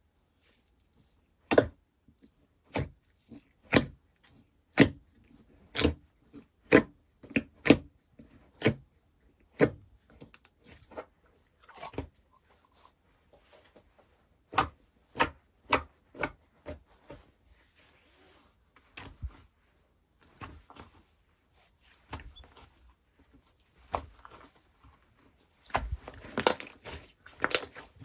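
Slime being played with by hand, giving sharp clicking pops about once a second at first, then softer, scattered squishes, and a dense crackling run near the end.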